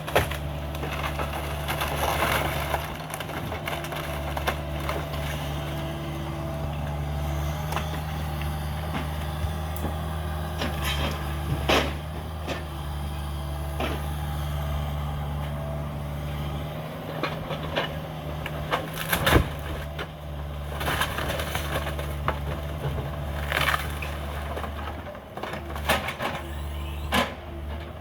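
Cat 305 mini excavator's diesel engine running steadily while wood crunches and splinters as the house is torn down, with sharp cracks and knocks now and then.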